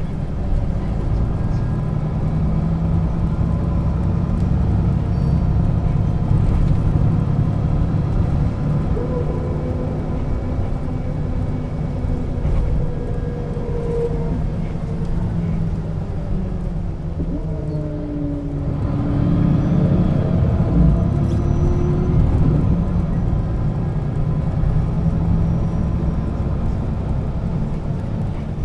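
Diesel engine and ZF gearbox of a 1996 Setra S 315 UL bus under way, heard on board. A steady low drone runs under a gearbox whine that rises and falls in pitch. About 18 seconds in the sound drops off briefly, then climbs again as the bus pulls up through its speed.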